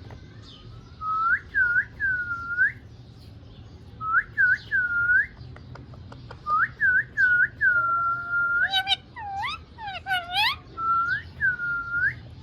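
Clear whistling: a short phrase of swooping, dipping notes repeated about four times with pauses between, with a brief burst of rougher, warbling calls from a ringneck parrot in the last third.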